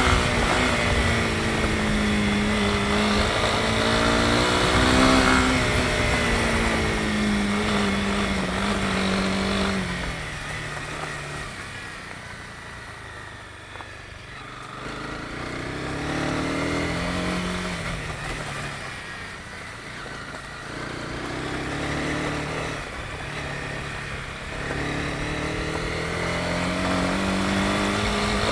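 Honda CB250R's single-cylinder four-stroke engine under way, holding steady revs for about ten seconds. It then drops to a quieter, lower note as the throttle is eased off, swells briefly a few times, and picks back up near the end.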